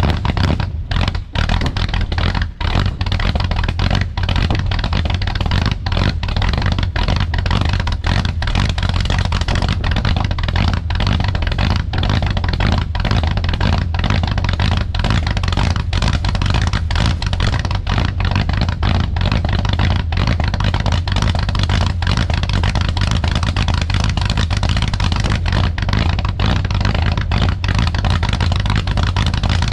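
A 1966 Chrysler 300's 383 big-block V8 running cold, shortly after a cold start, with a steady low, pulsing exhaust note.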